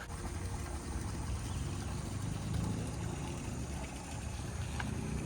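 Low, unsteady rumble of wind buffeting the microphone, with no clear tone or rhythm.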